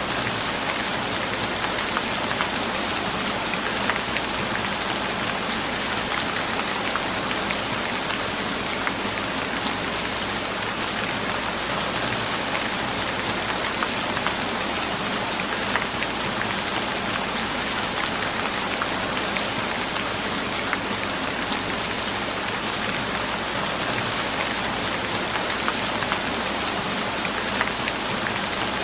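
Steady, even rain falling, with a dense patter of drops on a surface.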